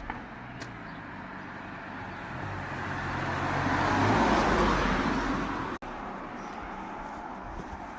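A car passing by on a street. Its engine and tyre noise swells to a peak about four seconds in and cuts off abruptly, leaving steady traffic noise.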